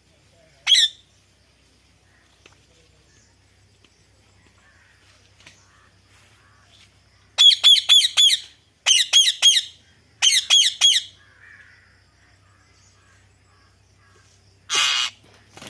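Indian ringneck parrot squawking: one shrill call about a second in, then three quick runs of repeated screeches in a row around the middle, and a harsher call near the end.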